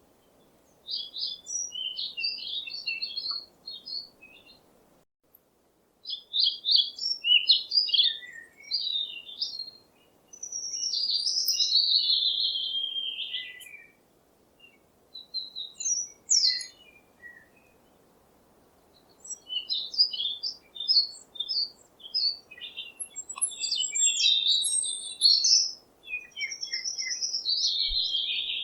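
Songbirds chirping and singing in bursts of quick high chirps and trills, with a longer warbling phrase that falls in pitch about midway, over a faint steady background hiss.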